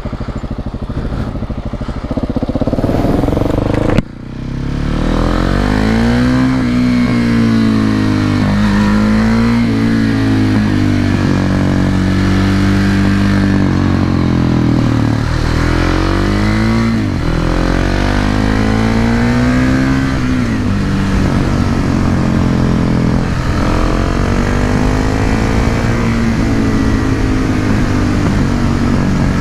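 Husqvarna 701 Supermoto's single-cylinder engine through an SC-Project slip-on silencer, heard on the move. The engine revs up and drops back again and again, its pitch rising and falling several times. About four seconds in, the sound briefly drops and then picks up again.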